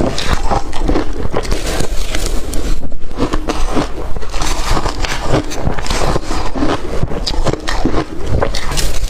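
A person biting and chewing blender-crushed ice: many crunches in quick succession, without pause.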